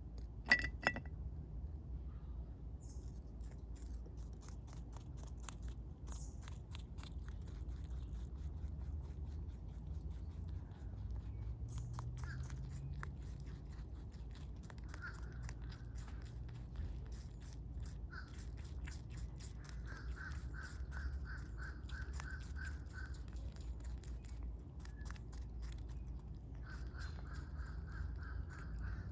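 Wild rabbit chewing close to the microphone: a long run of small crisp crunches and clicks. A sharp knock sounds about half a second in, and a bird calls twice in the second half with a quick series of repeated notes.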